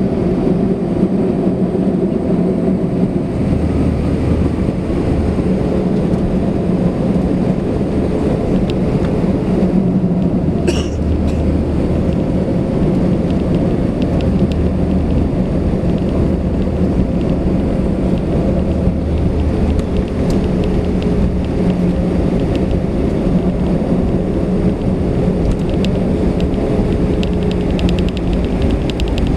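Cabin noise of a Swiss Airbus A320 on the ground after landing: a steady low rumble with a constant hum from the running aircraft, with one brief sharp click about eleven seconds in.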